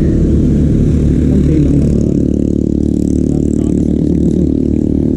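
A motor vehicle's engine running steadily close by, a constant low hum with no breaks.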